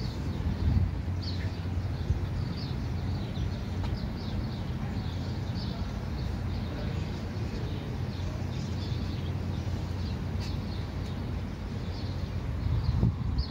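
Small birds chirping in quick, irregular short notes over a steady low rumble.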